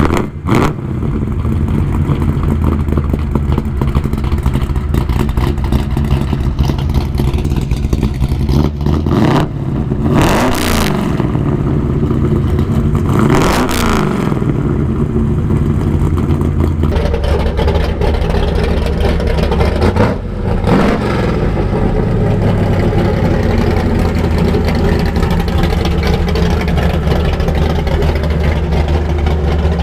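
1956 Chevy Bel Air's 572-cubic-inch big-block V8 running steadily, revved up hard and let back down twice, about ten and thirteen seconds in, then blipped once more around twenty seconds.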